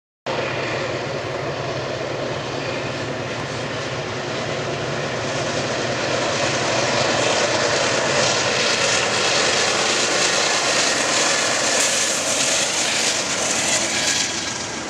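GE P42DC diesel locomotive pulling a passenger train past at speed, its engine drone steady under the rush of wheels on rail. The sound grows louder as the locomotive comes by, then the double-deck passenger cars roll past.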